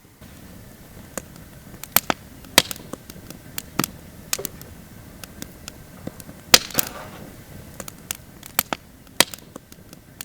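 Wood campfire crackling, with irregular sharp pops and snaps over a low hiss, one especially loud pop about six and a half seconds in.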